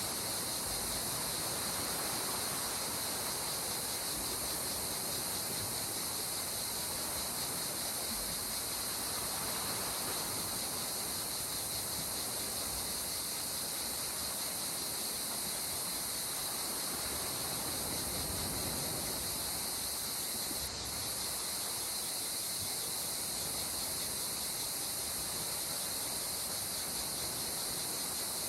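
Gentle sea waves washing in slow swells under a steady, high-pitched chorus of insects.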